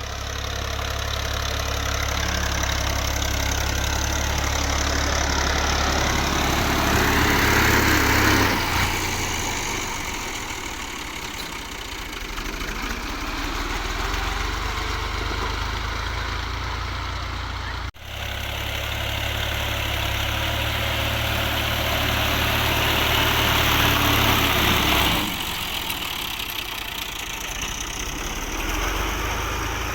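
Fiat 480 tractor's diesel engine running and working, its drone building in loudness over several seconds and then falling away sharply. This happens twice, with a brief break about halfway through.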